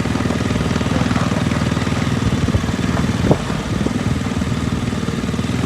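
Riding lawn tractor's small engine running steadily. A single sharp click is heard a little over three seconds in.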